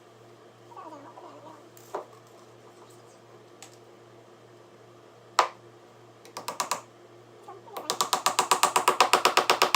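A few sharp knocks of wood and tool, then about two seconds of a cordless drill's rapid, even clicking, about twelve clicks a second.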